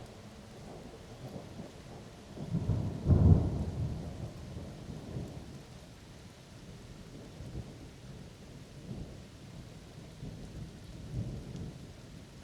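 Thunder cracks sharply about two and a half to three seconds in, then rumbles and fades, with a smaller rumble near the end, over steady rain.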